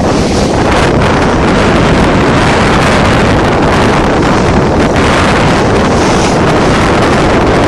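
Strong storm wind buffeting the microphone on a sailboat, a loud continuous rumbling roar with the rush of waves beneath it.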